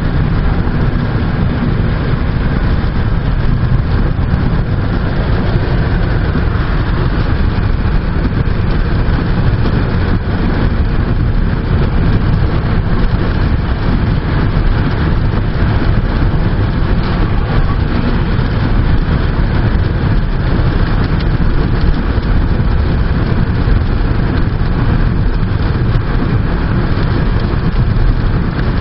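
Hurricane Irene's strong wind blowing steadily, with heavy wind rumble on the microphone.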